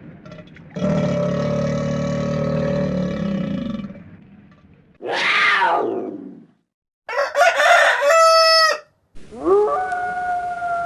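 A series of separate animal calls, one after another: a long call over a low hum, a short falling call, a short high call, then a call that rises and holds.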